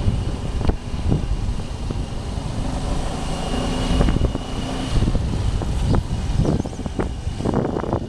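Motorcycle running on the move, a steady low rumble under wind noise on the microphone, with scattered short knocks and rattles.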